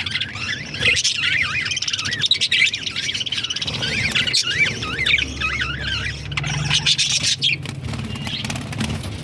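Budgerigars chirping and warbling continuously in quick, wavy, high chirps, several birds at once. A low hum runs underneath, strongest in the second half.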